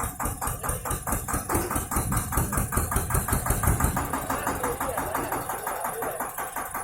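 Tractor diesel engine running with a rapid, even beat, louder for a stretch in the middle before settling back.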